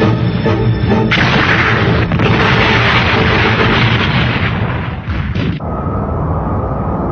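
Cartoon battle sound effect of cannon fire and explosions over dramatic background music. The blast comes in about a second in, runs for roughly four and a half seconds and cuts off suddenly, leaving the music.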